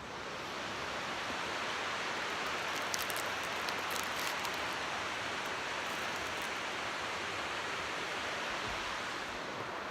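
Steady rushing of stream water, swelling within the first second and easing slightly near the end, with a few faint ticks.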